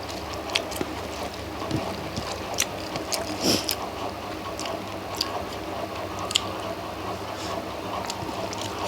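A person chewing and smacking their lips while eating rice and fish curry, with wet squishing sounds and scattered short, sharp clicks over a steady low hum.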